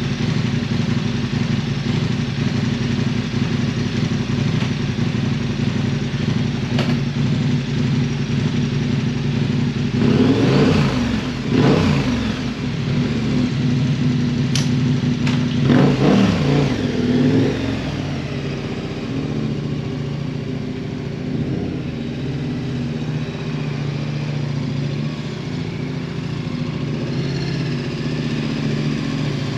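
KTM 1290 Super Adventure's V-twin engine running steadily, with the revs rising and falling twice, about ten seconds in and again about fifteen seconds in.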